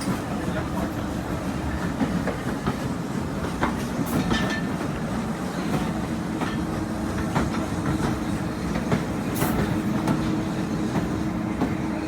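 Heritage railway train running along the line, a steady rumble with the wheels clicking and knocking over the rail joints.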